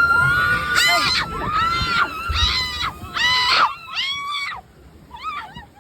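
People screaming on a theme-park ride: one long high scream, then a run of shorter screams, fading to fainter cries near the end.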